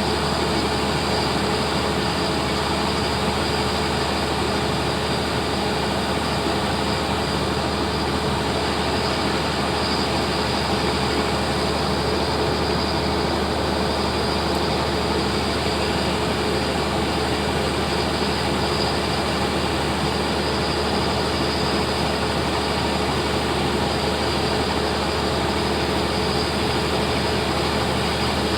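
Steady, unchanging drone of a car-passenger ferry under way, its engines humming with a few constant tones over an even rush of noise.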